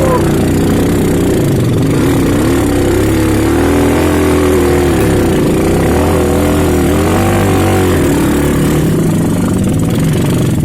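Off-road trail motorcycle engine running loud, its revs rising and falling again and again as the throttle is worked on a steep climb.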